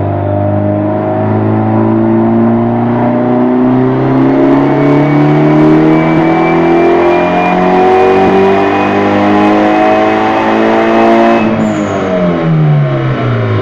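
Volkswagen 1.8-litre 20-valve turbocharged four-cylinder engine making a full-throttle pull on a chassis dynamometer. The revs climb slowly and steadily for about eleven seconds, then drop quickly as the throttle is lifted near the end.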